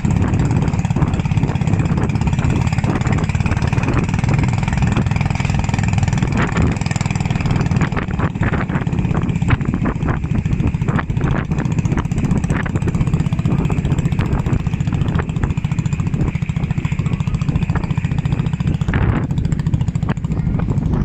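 Motorboat engine running steadily at speed, a constant low drone, with short knocks and crackles in the second half.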